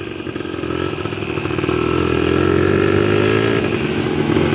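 ATV engine running under way, growing louder over the first two seconds and then holding steady.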